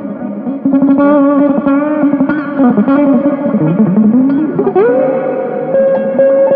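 Electric guitar played through effects with some distortion: sustained, bending notes, then a slide up into a long held note about five seconds in.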